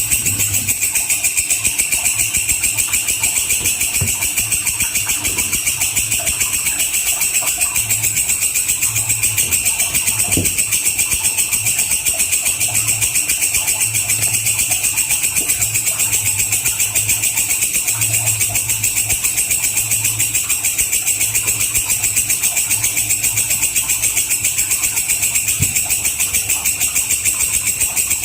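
Walang kecek insect calling in a continuous, high-pitched, rapidly pulsing trill, each pulse evenly spaced, with its strongest pitch bands near 3 and 8 kHz.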